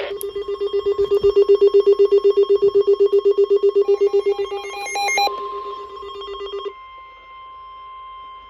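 Weather radio alert: a loud alarm tone pulsing rapidly, about eight beeps a second, with a brief run of stepping beeps about four to five seconds in. Near the end it gives way to a steady, quieter high tone, the NOAA Weather Radio warning alarm tone that comes before a warning message.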